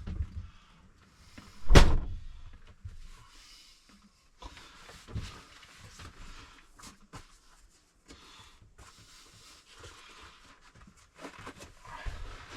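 A single loud thump about two seconds in, then scattered light knocks, clicks and rustling of things being handled inside a truck camper.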